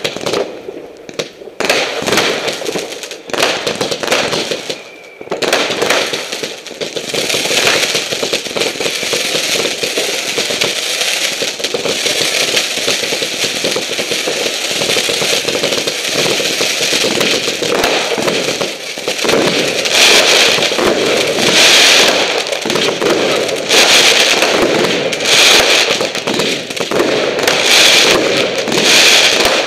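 Fireworks display: separate bangs for the first few seconds, then a dense, continuous crackle of many shells and crackling stars going off together. It is loudest in the last ten seconds.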